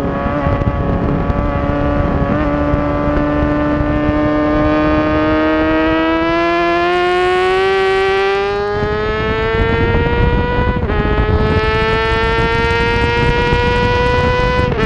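Honda CBR600RR's inline-four engine accelerating hard at high revs, its pitch climbing steadily, then dropping sharply about eleven seconds in and again near the end as it shifts up a gear, then climbing again. Wind rushes underneath throughout.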